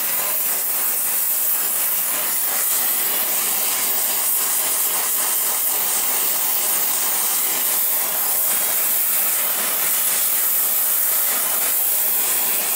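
Gas torch flame hissing steadily as it heats a rusted, seized exhaust manifold stud towards a dull cherry red to free it.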